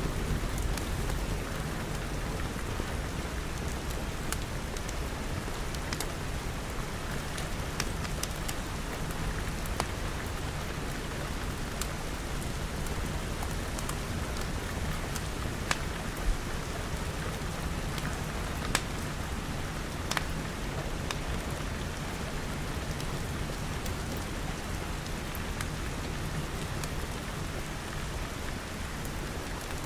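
Steady rain pattering on glass, with a low rumble underneath and scattered sharp crackles and pops from a wood fire.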